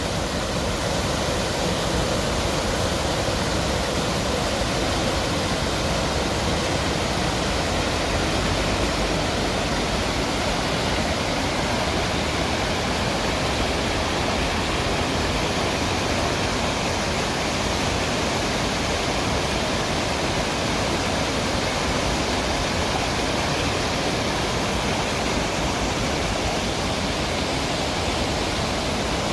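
Rushing water, a steady unbroken rush with no changes.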